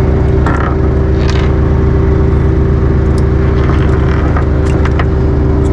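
Boat engine running steadily at an even pitch, with a few light clicks and rattles over it.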